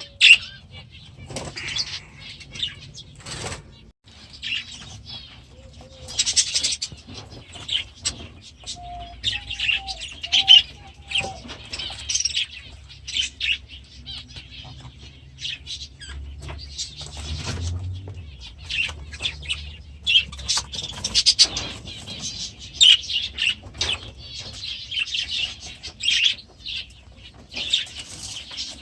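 A flock of aviary budgerigars chirping and chattering, with wings flapping among the calls.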